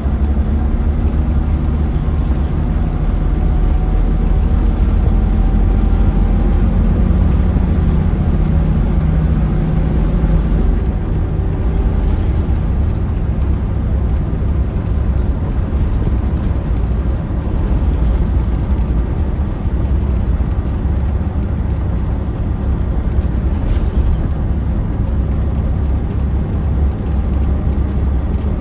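Scania DC9 five-cylinder diesel of a 2006 Scania L94UB bus running under way, heard from inside the bus as a steady low rumble with road noise. Its engine tones are clear at first and fade about ten seconds in.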